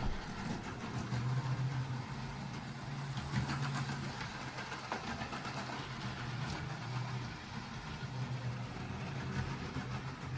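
Model train running on the layout: a steady motor hum with scattered light clicks and rattles.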